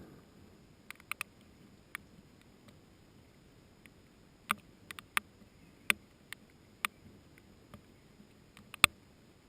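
Scattered rain drips hitting the pepper plants: about fifteen sharp taps at irregular intervals, a few close together, with the loudest near the end.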